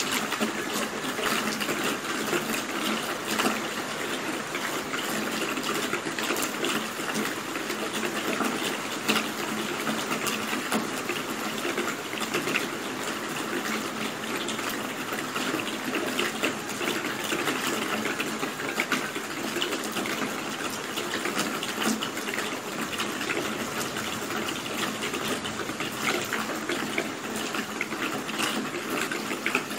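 Steady rain falling, an even rushing hiss thick with small drop hits and no let-up.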